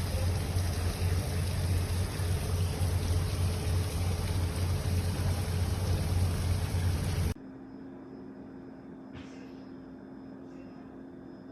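Geek Chef 20-bar espresso machine's pump buzzing steadily, then cutting off abruptly about seven seconds in, leaving a faint hum.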